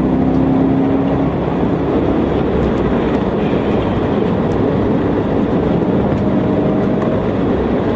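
Steady vehicle noise: a constant, loud rumble with no break.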